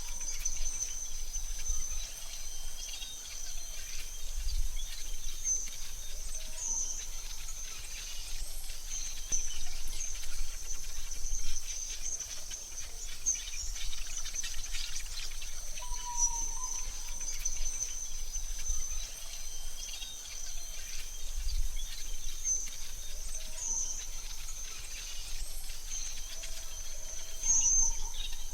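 Forest ambience: a steady high insect drone with scattered short bird chirps, and a brief lower bird call about halfway through, over a faint low rumble.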